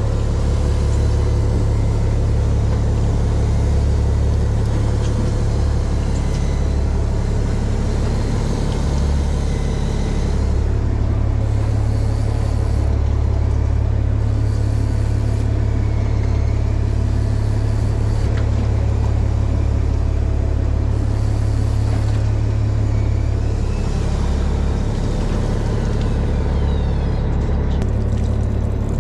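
Fishing boat's inboard engine running steadily, a low rumble heard on deck.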